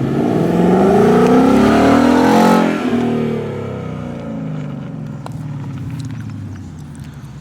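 Ford Mustang GT's 5.0-litre V8 through a Magnaflow exhaust, pulling hard past, its pitch rising to a loud peak about two and a half seconds in, then dropping and fading as the car moves away.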